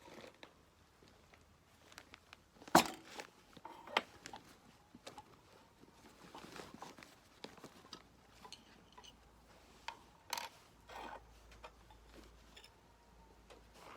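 Occasional clinks and knocks of tea utensils being handled and set down, the loudest a sharp knock about three seconds in, with a few softer knocks later.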